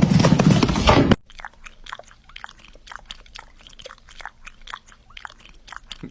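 Crunchy chewing: a loud burst of noise for about the first second, then a run of short, crisp crunches, several a second.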